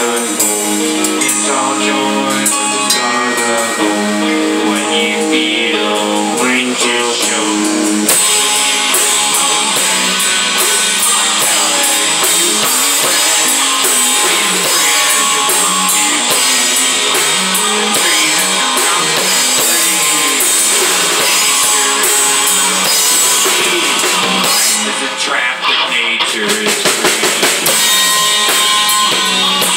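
Rock band music: guitar with a drum kit, the full band and drums coming in about eight seconds in.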